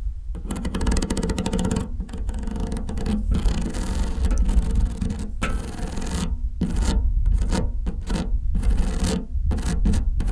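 Long fingernails scratching and rubbing a surface close to the microphone in quick repeated strokes, stopping briefly several times.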